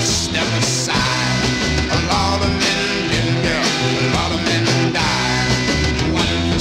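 Rock band playing an instrumental break: steady bass and drums under a lead line whose notes bend in pitch.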